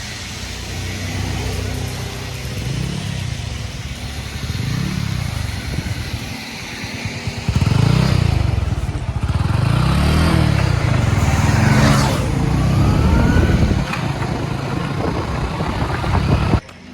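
An engine revving up and down repeatedly, getting louder about halfway through, and cutting off abruptly near the end.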